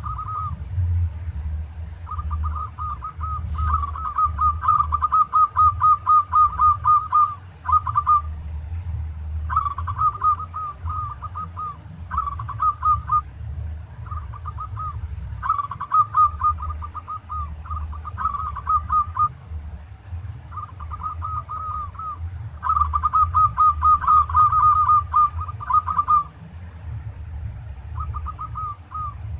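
Zebra dove (perkutut) cooing: bursts of quick, rapidly repeated coo notes lasting a few seconds each, with short gaps between them, over a low steady hum.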